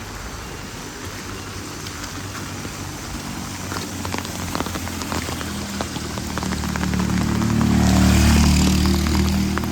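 Steady rain with scattered drips and taps. From about halfway a motor vehicle's engine swells in, loudest near the end, then eases off as it passes.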